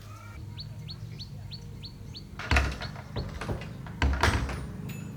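A bird calling a quick run of seven short descending chirps, about four a second. Then two loud thumps, the second about a second and a half after the first.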